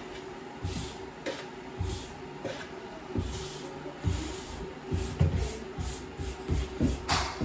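Rubber grout float working grout across shower tile in repeated short scraping strokes, about two a second, each with a dull knock and a scratchy swish.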